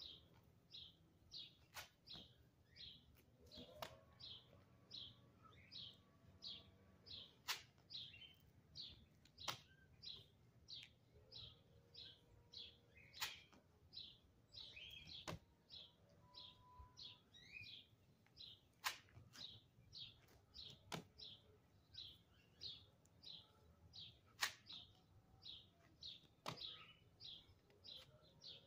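A bird chirps over and over, about two short high chirps a second. Every couple of seconds there are sharp slaps of hands and shoes landing on concrete during burpees.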